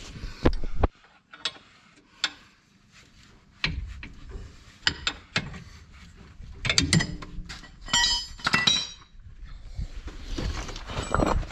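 Hand-tool work on a van's steering tie rod end as the new part is fitted: scattered metal clinks and knocks, with a quick run of fine rapid clicks a little past the middle.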